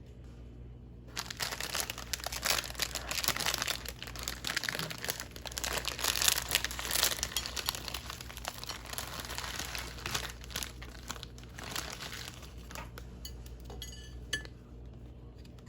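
Plastic instant-ramen wrapper crinkling as it is handled and opened, a dense crackle that starts about a second in and thins to scattered crackles near the end.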